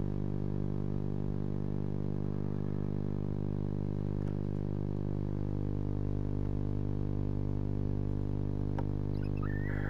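Steady electrical hum made of many evenly spaced pitched tones, with a single click near the end and then a brief high chirp just before the end.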